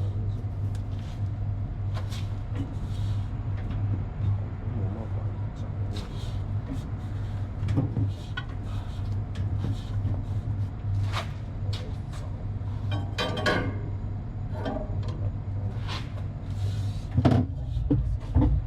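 Scattered metal clinks and knocks of hand tools on an electric motor's mounting as it is tightened and aligned, over a steady low hum.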